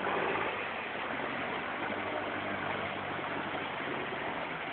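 Toyota Hilux engine running under a steady rush of water as the truck wades through it.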